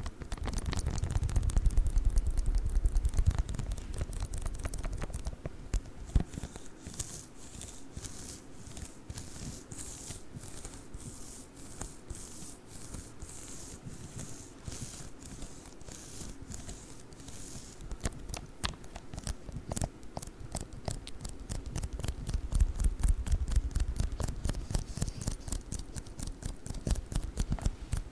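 A sticky lint roller worked close to the microphone, its adhesive sheet crackling and peeling in dense rapid ticks, with heavier rolling stretches near the start and again toward the end.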